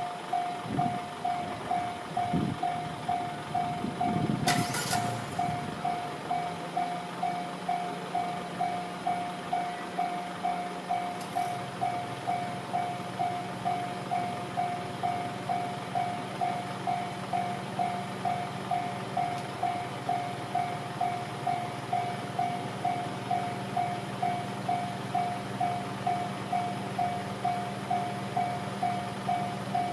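Electronic level-crossing warning bell ringing, one tone pulsing about twice a second. A short hiss comes about four and a half seconds in, and from about six seconds a low steady hum of the stopped freight train's EF65 electric locomotive sets in.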